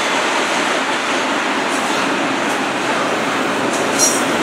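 CN double-stack intermodal freight train rolling past on its container well cars, with a steady noise of steel wheels on rail. A brief high squeak sounds near the end.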